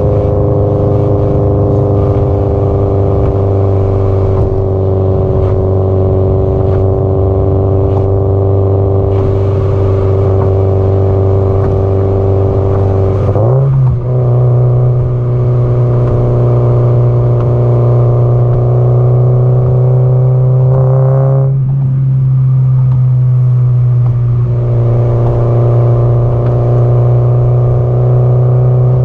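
Subaru Impreza GDB-E's turbocharged flat-four running through an aftermarket muffler at steady expressway cruise, a constant engine drone. Its pitch steps up sharply about halfway through, with further brief changes in revs later on.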